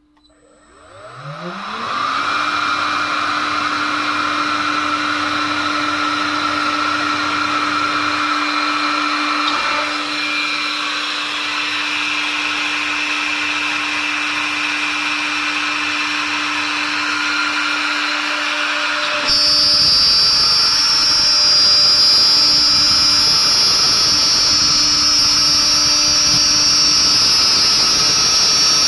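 CNC router spindle spinning up from rest, rising in pitch over about two seconds, then running at a steady high speed. About 19 seconds in, a louder, harsher noise with a high whine suddenly joins it.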